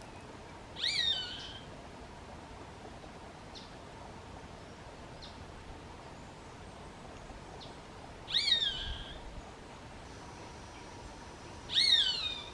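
Roadside hawk calling three times, each a short scream that falls in pitch, with long pauses between them.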